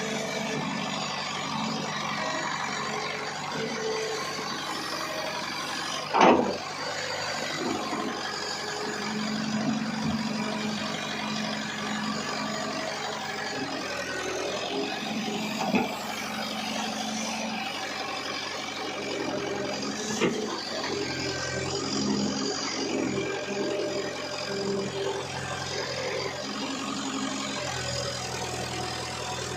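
JCB digger's diesel engine running under varying load, its pitch shifting as the machine works, with a loud sharp knock about six seconds in and two lighter ones later.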